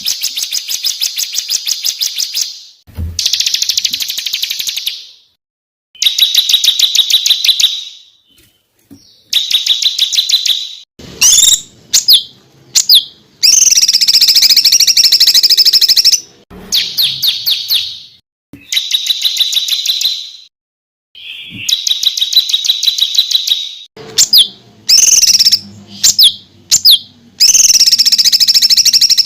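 Songbird singing very fast, tightly packed rapid-fire trills ('tembakan rapat'), a masteran recording of the kind played to teach competition birds their song. The phrases run one to three seconds each, are high-pitched, and are broken by sudden short silences.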